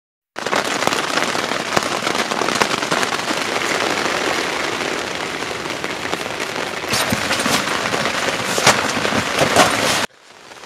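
Heavy rain, a dense steady patter studded with sharp drop hits. It starts abruptly and cuts off suddenly about ten seconds in.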